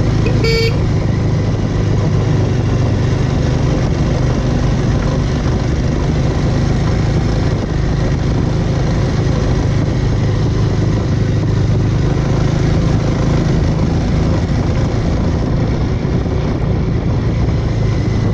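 Bajaj Avenger motorcycle's single-cylinder engine running steadily while riding, with a short horn toot about half a second in.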